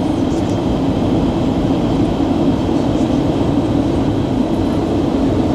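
Steady roar of a jet airliner's cabin in flight: engine and airflow noise heard from inside, with a faint high whine above it.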